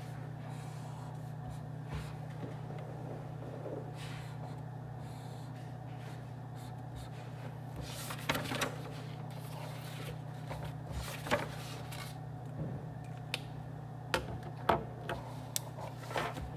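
Office room tone: a steady low ventilation hum, with scattered light clicks and taps that come more often in the second half.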